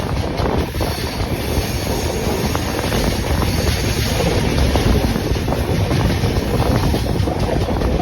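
A moving train: a steady rumble of wheels running on the rails, with rattling.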